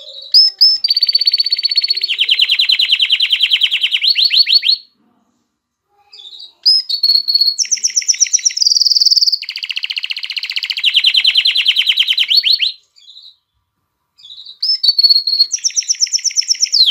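Male canary singing in breeding condition: three long song phrases of rapid, rolling trills, with pauses of about two seconds after about five seconds and again near thirteen seconds.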